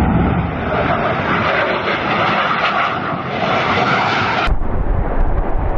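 Airplane flying overhead, its engine noise loud and steady, the sound changing abruptly about four and a half seconds in.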